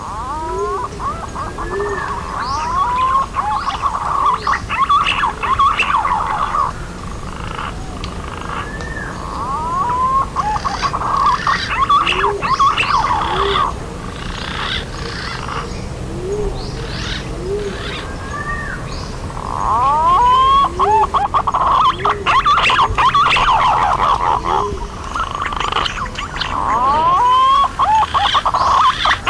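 Green pigeons (punai) calling: several birds giving wavering, rising and falling whistles in three dense bouts, with quieter gaps between, and short low notes under them throughout.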